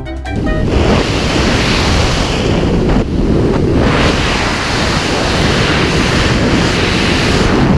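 Wind rushing over the microphone in a skydive: loud, steady wind noise with no pitch, dipping briefly about three seconds in.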